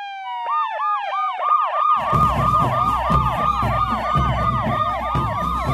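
Police siren sound effects: overlapping falling wails at first, then a fast yelp of about four swoops a second. A low rumble joins about two seconds in.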